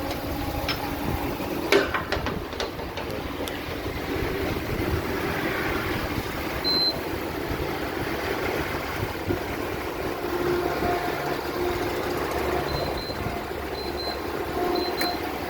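Wind on the microphone over a vehicle engine idling, with a few clicks about two seconds in. In the second half come several short high beeps, typical of a fuel pump's card reader and keypad.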